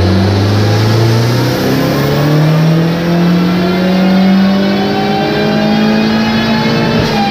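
Big-turbo VW 1.8T inline four-cylinder engine at full throttle on a chassis dyno, its revs climbing steadily in one gear for about seven seconds during a power run.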